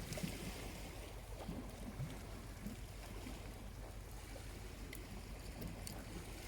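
Small waves lapping gently at the shore over a low steady rumble, with a few faint crackles from a charcoal campfire near the end.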